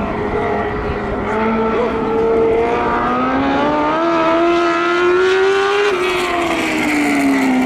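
Sprint car engine running on a dirt track. Its pitch climbs steadily for about three seconds as it accelerates, then falls away near the end as the car backs off.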